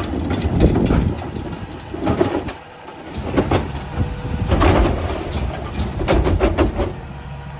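Mack rear-loader garbage truck running with a low diesel rumble, with repeated metal clanks and rattles over it.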